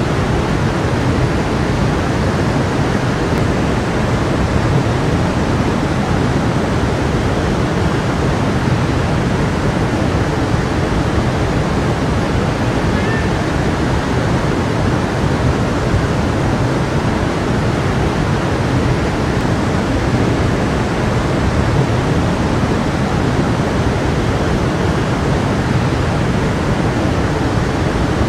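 Stream flowing, a steady rush of water with no breaks.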